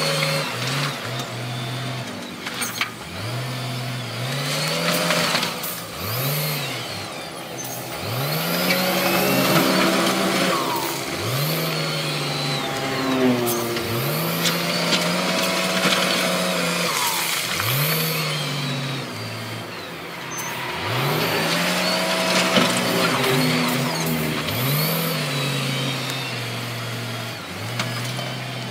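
Diesel engines of heavy earthmoving machines working rock, revving up and dropping back again and again, with a few knocks.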